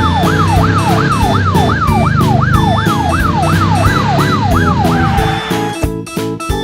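Fire truck siren wailing in fast, repeated rising-and-falling sweeps, about three a second, that stop about five seconds in; background music with a steady beat plays underneath and carries on alone.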